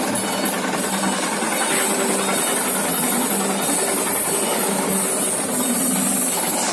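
Engine running through a homemade exhaust, giving a steady loud hiss.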